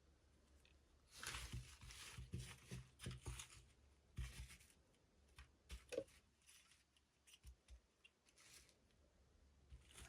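Toy packaging being handled and torn open: quiet rustling, tearing bursts at intervals, with a few light clicks.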